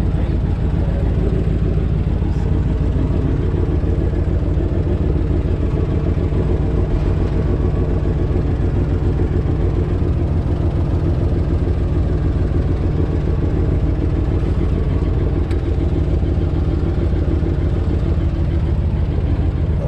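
Truck engine running steadily, a deep even rumble with no change in speed.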